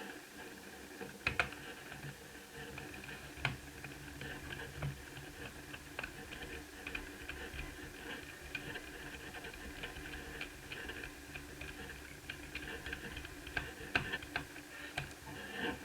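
Light, irregular clicks and taps, a few sharper than the rest, over a faint steady hum.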